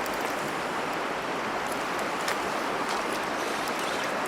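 Steady rush of a fast-flowing, shallow river running over rocks.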